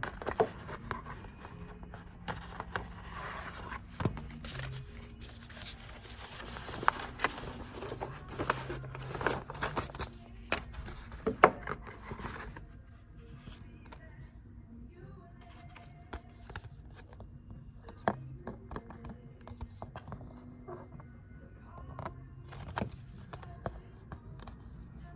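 Hands opening and handling CD packaging: scraping, crinkling and sharp clicks of plastic wrap and case, busiest in the first half and sparser from about halfway.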